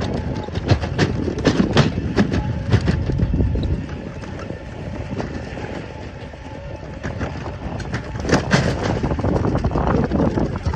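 A small electric vehicle rattling and knocking as it rides over a rough dirt track, with a low rumble underneath. The bumps ease off for a few seconds midway, then grow louder again near the end.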